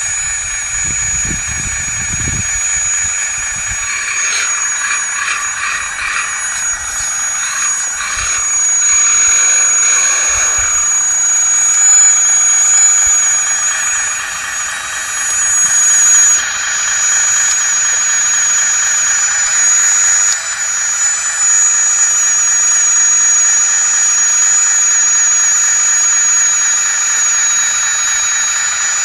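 A 1/16-scale full-metal RC hydraulic wheeled excavator running: a steady high whine with a mechanical hiss, which turns busier and rattlier from about 4 to 11 seconds in as the machine works.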